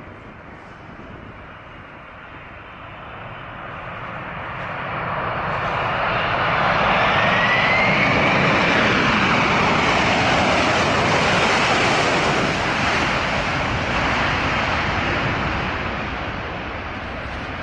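Jet airliner engines passing close by: a broad jet roar that builds over several seconds, peaks in the middle with a high turbine whine that rises and then slowly drops, and fades away toward the end.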